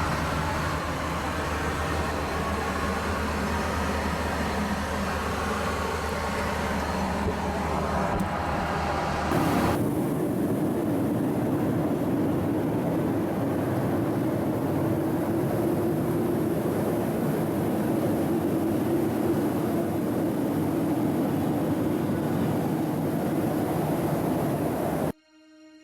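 Steady cabin noise inside a Boeing 737-700 airliner: engine and airflow rushing. About nine or ten seconds in, the sound changes abruptly to a different steady rush with a stronger low hum. Near the end it cuts off to soft music.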